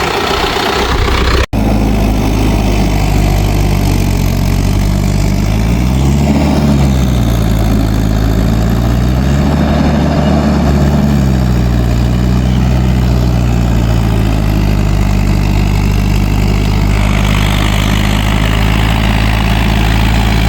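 Mahindra 585 DI tractor's diesel engine running steadily at low revs, revved up briefly twice (about six seconds in, then again around ten seconds) before settling back. There is a momentary break in the sound about a second and a half in.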